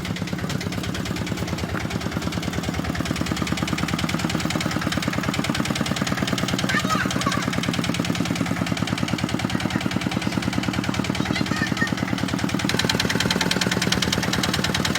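Kubota tractor's diesel engine running steadily with a rapid, even pulsing beat, growing slightly louder over the first few seconds.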